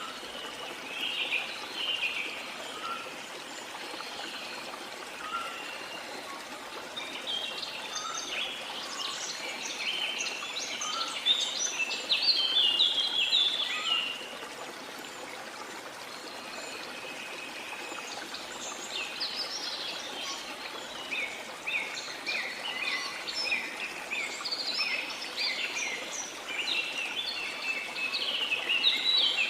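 Many tropical rainforest birds chirping and trilling in overlapping bouts over the steady rush of a waterfall; the birdsong thins out for a few seconds in the middle, then picks up again.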